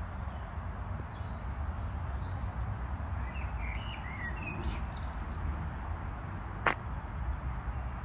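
Outdoor ambience: a steady low rumble, with a small bird chirping a few times in the middle and a single sharp click near the end.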